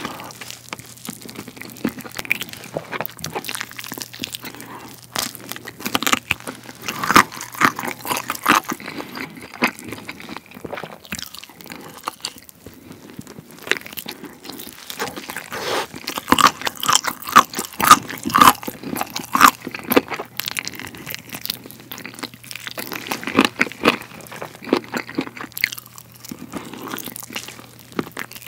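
Close-miked biting and chewing of a sauce-glazed roasted chicken drumstick: a dense run of sticky mouth clicks as the meat is pulled off the bone, louder a quarter of the way in and again just past halfway.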